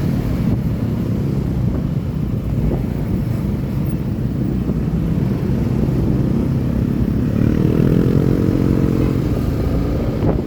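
Motorcycle engine running steadily while under way, with a rumbling note; the engine pitch rises and falls back again about seven to nine seconds in.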